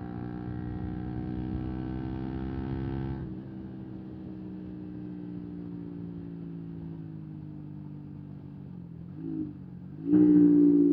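125cc single-cylinder motorcycle engine on the road. It pulls steadily with its pitch slowly sinking, drops back when the throttle closes about three seconds in, gives a brief blip near nine seconds, then revs up hard and loud about ten seconds in.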